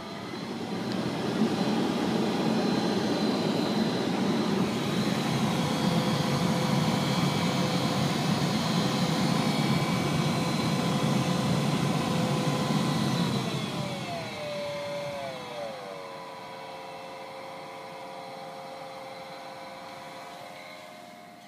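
2011 Honda Pilot's heater blower motor turned up to high speed: rushing air with a steady whine over it, then about fourteen seconds in it slows, the whine gliding down, and settles at a lower, quieter speed. The noise comes from the fan motor's failing bearing.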